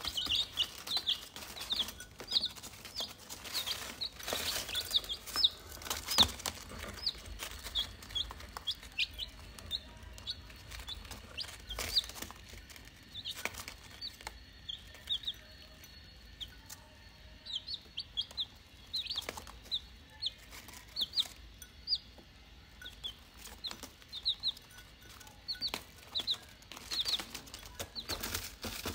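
Birds chirping in quick clusters of short, high notes, with scattered sharp clicks and knocks in between.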